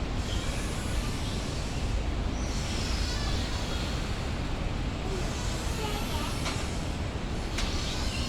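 Steady city traffic rumble, with a few faint high chirps and two short clicks near the end.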